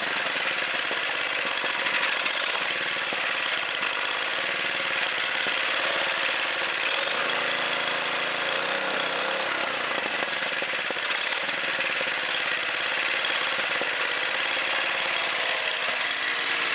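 Small engine of a Baja Racer mini bike running steadily after its varnish-clogged carburetor was cleaned and the jet cleared; the note shifts briefly about seven seconds in, as the carburetor is being fine-tuned.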